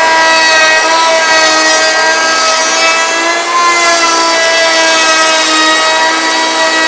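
Router running with a roundover bit, routing a small roundover along the edge of a board: a loud, steady high whine over a wide hiss.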